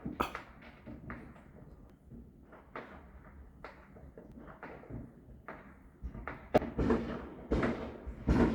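Neighbourhood fireworks going off, heard muffled from indoors: a string of irregular bangs and pops that come faster and louder after about six seconds.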